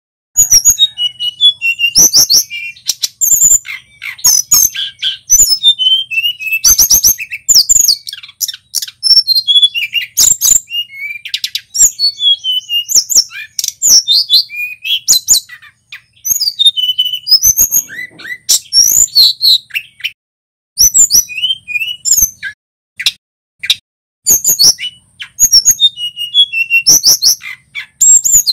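Male tledekan gunung singing a fast, varied song of high chirps, trills and short whistled slurs, in phrases broken by brief pauses, with sharp clicks between the notes.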